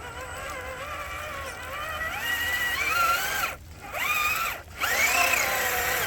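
Electric motor and gear drive of an RC4WD Gelande 2 scale crawler whining as it is driven, the pitch climbing and falling with the throttle. It cuts out twice briefly in the middle as the throttle is let off, then picks up again.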